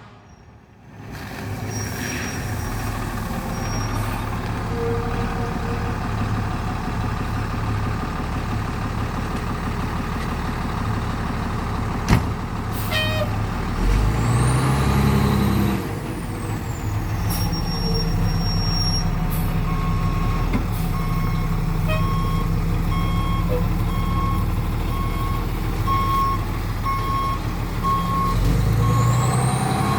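Old fire truck's engine running steadily, its pitch rising briefly about halfway through. In the second half a backup alarm beeps at an even pace, a little more than once a second.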